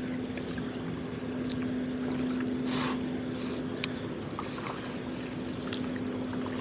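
Canoe paddling on calm water: a paddle stroke splashes about three seconds in, with a few sharp drips or knocks of the paddle around it. Under it runs a steady low mechanical hum.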